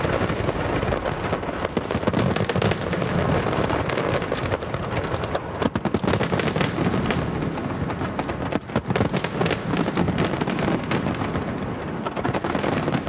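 Large fireworks display going off: a dense, unbroken barrage of bangs, booms and crackles, with clusters of sharper cracks in the middle.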